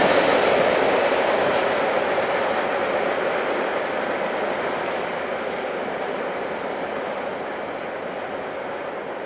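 Union Pacific freight train rolling past, a steady rumble and rattle of wheels on rail that gradually fades.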